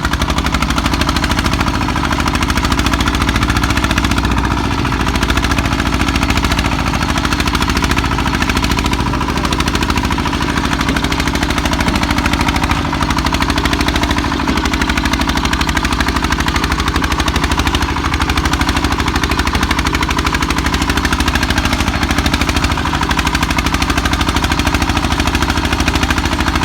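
The single-cylinder diesel engine of a công nông farm truck chugging loudly and steadily, with a rapid even beat of firing strokes throughout.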